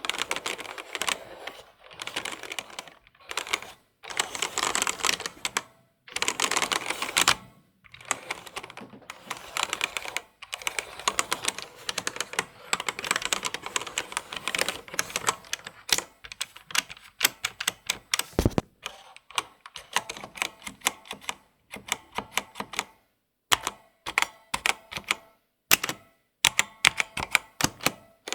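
Typing on a computer keyboard: fast runs of key clicks broken by short pauses, with one heavier single stroke about two-thirds of the way through.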